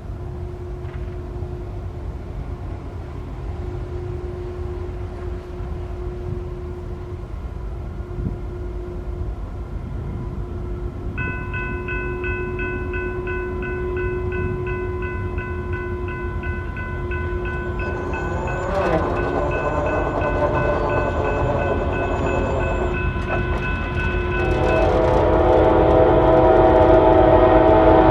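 Approaching Norfolk Southern freight train: its locomotive horn sounds, with the engine rumble growing louder throughout. A grade-crossing bell rings with a steady ticking from about a third of the way in. Near the end the horn blows loud and close as the locomotives arrive.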